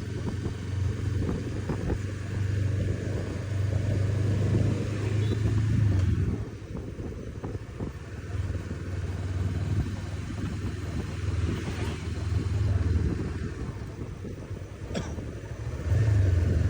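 Honda CB500X's parallel-twin engine running on the move, with low road and wind rumble. It is louder for the first six seconds and again near the end, with a single sharp click about fifteen seconds in.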